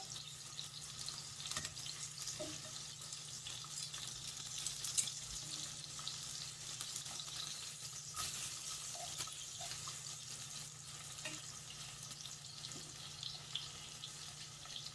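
Fish frying in hot oil on a tawa, just turned over: a steady crackling sizzle with a few light clicks.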